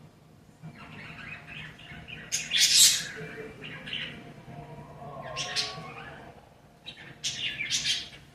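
Pet parakeets chattering, with three loud, shrill squawking chirps: one about two and a half seconds in, one in the middle and one near the end.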